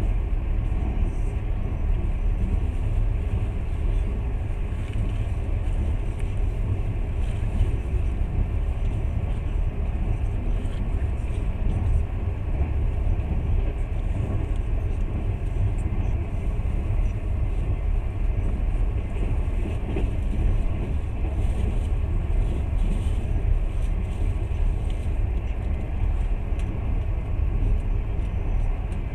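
Passenger train running at speed: a steady low rumble and rushing noise that does not change.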